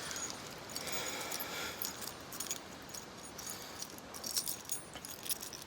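A bunch of keys jingling faintly, light metallic clinks and tinkles coming and going.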